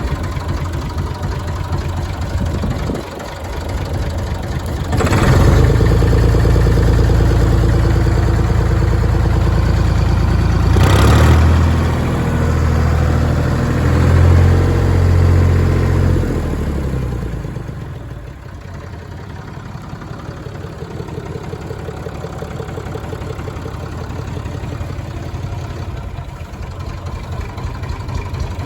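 1965 Massey Ferguson 135 tractor engine idling, revved up about five seconds in and held at higher revs for roughly twelve seconds, then let fall back to a steady idle.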